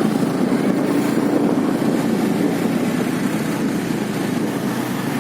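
Motorcycle engine running steadily while riding, an even drone without pauses.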